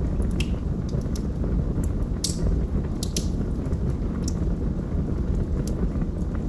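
Wood fire burning in a fireplace: a steady low roar of the flames with scattered crackles and sharp pops of the burning logs, the loudest pops about two to three seconds in.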